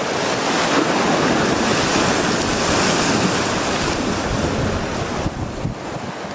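Strong gusty sea wind on the microphone with surf, a gust building over the first few seconds and easing about five seconds in.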